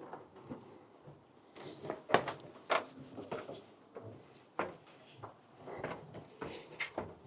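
Footsteps on a wooden boardwalk: a series of hollow knocks at walking pace, with light scuffs between them.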